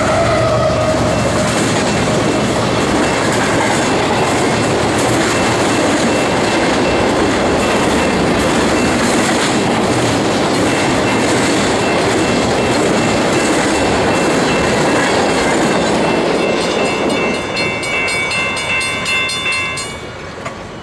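A fast intermodal freight train passing close by. First the mid-train GE Evolution C45ACCTE helper locomotive goes by with a tone falling in pitch. Then loaded spine and container cars give steady wheel-on-rail noise for about sixteen seconds, which fades away as the end of the train passes.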